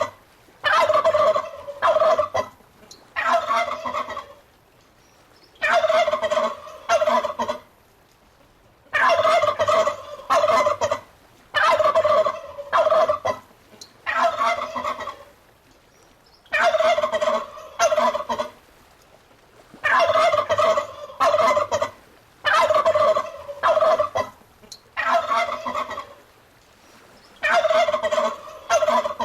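Domestic turkeys gobbling over and over: loud rattling gobbles about a second long, often two in quick succession, with short pauses between them.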